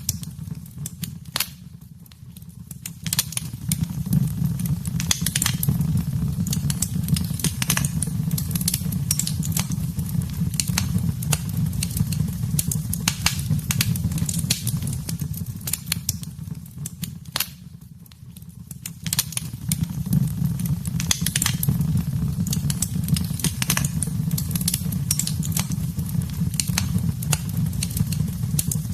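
Wood fire burning in a fireplace: frequent sharp crackles and pops over a steady low rumble of flames. The fire quietens briefly twice, once near the start and again just past halfway.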